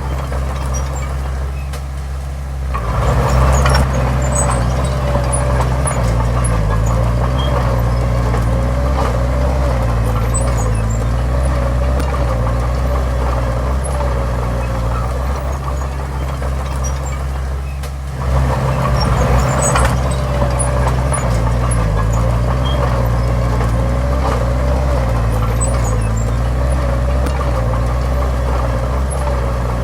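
Heavy diesel engine of earthmoving machinery running. About three seconds in it picks up and works harder, eases back briefly after about eighteen seconds, then picks up and works hard again, with faint clicks and clatter over it.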